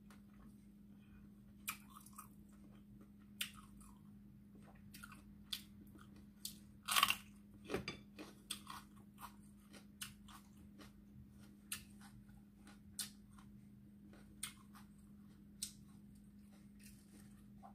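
A person chewing crunchy food close to the microphone: short crisp crunches about every second or two, with a louder burst of crunching about seven seconds in.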